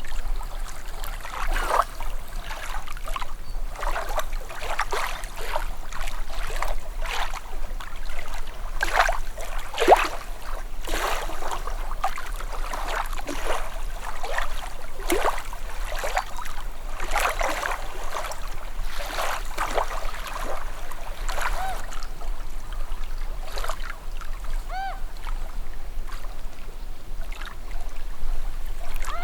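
Calm sea water gently lapping at the shore, with a steady run of small irregular splashes and trickles. About 25 seconds in there is one brief high chirp.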